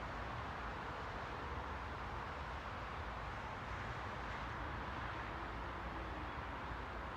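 Steady rushing ambient noise with a low rumble underneath and no distinct events.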